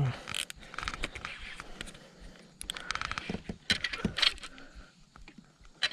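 Irregular metallic clicks and rattles of fishing tackle being handled on a kayak just after a fish is hooked, busiest about three to four seconds in.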